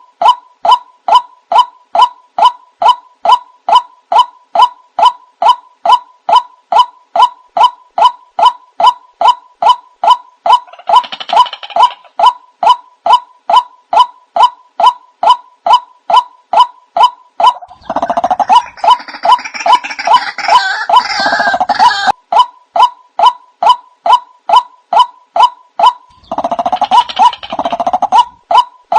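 Recorded lure call of white-breasted waterhens (ruak-ruak): a steady, unbroken run of short, evenly spaced calls, a little over two a second. Harsher, noisier calling joins in three times: briefly about eleven seconds in, for about four seconds in the middle, and again near the end.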